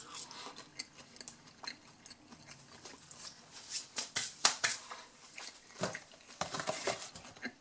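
Chewing a breaded, oven-baked mozzarella stick, with scattered crisp crunching clicks. Near the end, the cardboard snack box is handled, adding a few more clicks and rustles.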